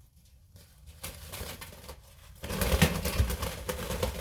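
Rustling and scuffling as a pet parrot is taken off its perch and held, with a few sharp clicks. It starts about two and a half seconds in, after a quiet start.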